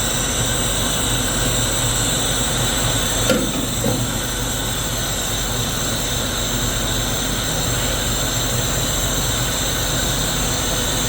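Steady running noise of factory machinery, with a short knock about three seconds in and a lighter one just after.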